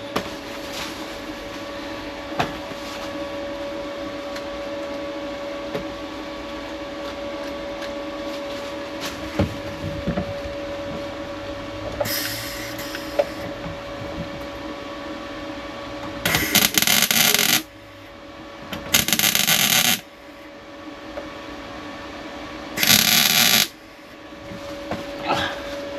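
A power tool runs in three short bursts of about a second each, over a steady background hum, with a few light knocks between them.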